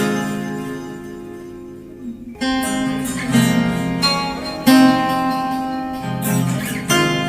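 Acoustic guitar strumming chords that ring out. It plays softly at first, then comes in with firm strums from about two and a half seconds in.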